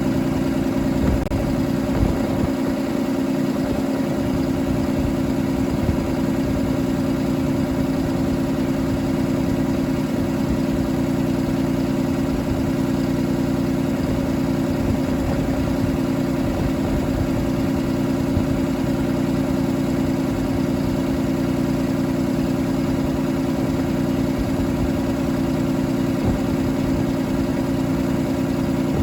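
Cummins ISB6.7 inline-six turbodiesel engine running steadily at idle.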